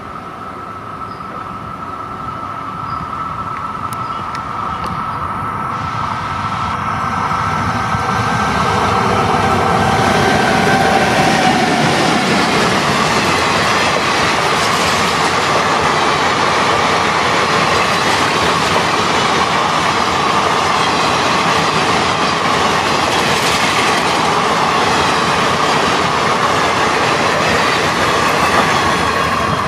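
Electric locomotive hauling passenger coaches, approaching and passing at speed. A steady whine from the locomotive grows louder over the first ten seconds. Then a long rake of coaches rolls by close up with wheel clatter and a steady high ring from the wheels.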